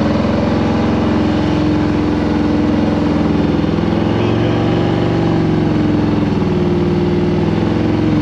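2021 Harley-Davidson Road Glide Special's Milwaukee-Eight 114 V-twin engine running steadily, its pitch rising and dipping gently a couple of times.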